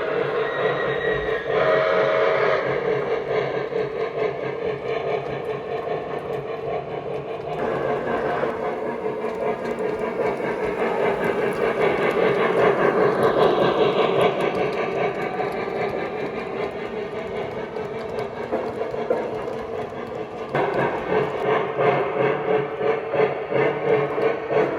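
Lionel Legacy L2a Mohawk model steam locomotive running, its onboard sound system playing steam locomotive sounds over the rumble of the train on the track, with short steady whistle-like tones near the start and a rhythmic chuffing toward the end.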